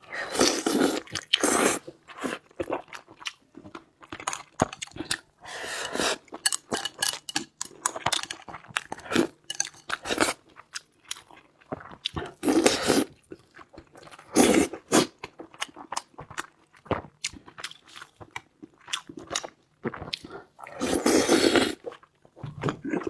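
Close-up chewing and crunchy biting of food, in irregular bouts of loud bites and chews separated by short pauses.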